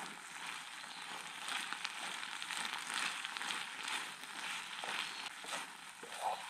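Green onion noodles sizzling in a small non-stick frying pan as they are stirred and tossed with a wooden spoon: a steady hiss dotted with frequent small crackles and light scrapes.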